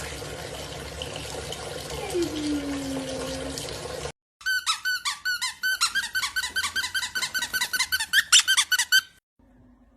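A steady hiss for about four seconds. After a brief cut comes a rapid run of loud, high-pitched squeaks, several a second for about five seconds, which stops abruptly.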